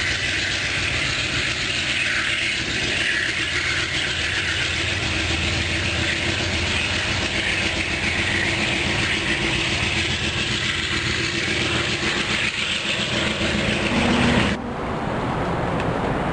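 Diesel locomotive of an Amtrak train, a GE P42DC, pulling away under power, with its engine hum and a steady rush of wheel and rail noise. About two seconds before the end it cuts suddenly to a quieter, steady background rumble.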